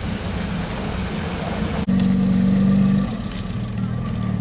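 A classic coupe's engine running as the car pulls away, growing louder for about a second from around two seconds in, then easing off.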